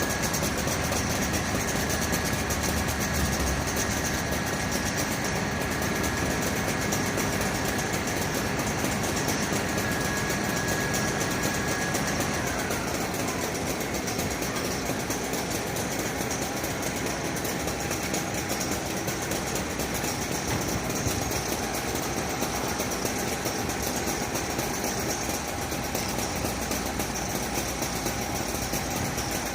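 Fire truck engine idling steadily, with a thin high whine that slides down in pitch about twelve seconds in and then holds at the lower pitch.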